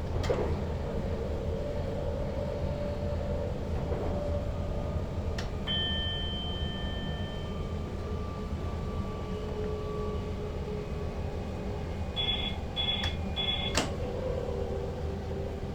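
Steady low rumble of an SLT electric multiple unit running, heard from inside the driver's cab. About a third of the way in, a two-note electronic tone sounds for about two seconds, and near the end three short beeps follow, with a few sharp clicks in between.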